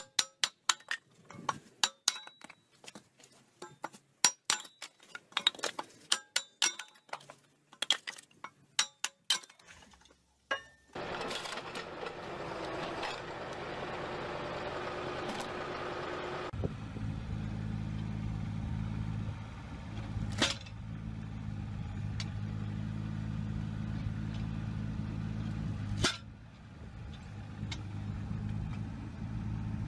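A rapid, irregular series of sharp knocks and clicks, then a stretch of hissing noise, then a motor or engine running steadily with two loud knocks a few seconds apart.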